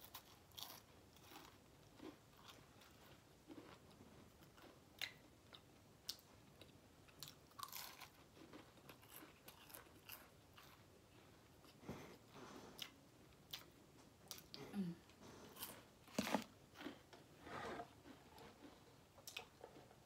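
Faint eating sounds: a person chewing and crunching food, with scattered small clicks and crackles.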